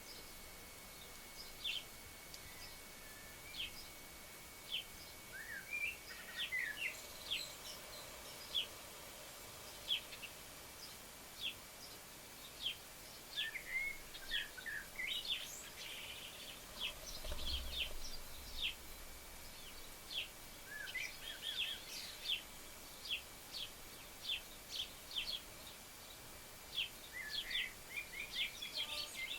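Small garden birds chirping and calling repeatedly in short, quick notes over a steady background hiss. A faint steady high tone runs underneath, and there is a brief low rumble about halfway through.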